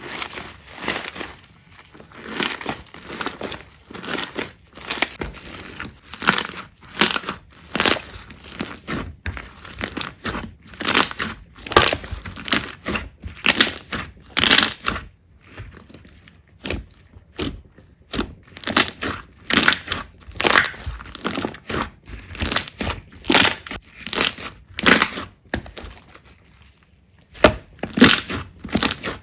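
Slime being pressed and squeezed by hand, making a string of short, irregular sounds about one or two a second, with a brief pause near the end.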